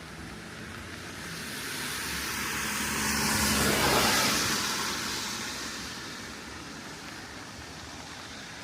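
A car drives past on a wet road: its tyre hiss swells, is loudest about four seconds in, then fades away. Steady rain continues underneath.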